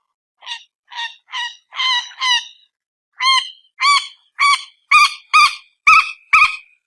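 Repeated short, harsh, honking calls of a mandar batu (common moorhen), the bird also called peruk or tiung. There are about twelve calls, roughly two a second, in two runs broken by a short pause near the middle, and the second run is louder.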